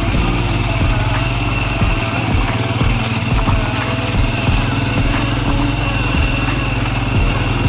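Motorcycle engine running steadily while riding, with scattered knocks and thumps from the bike jolting over a rough road.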